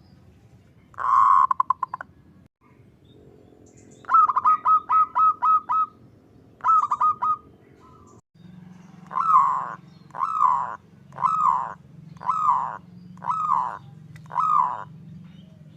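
Zebra dove (perkutut) cooing in its staccato rolling song. A rapid rolling burst comes first, then a quick run of about eight short clipped notes and a few more. The song ends with six longer, downslurred coos, evenly spaced a little under a second apart.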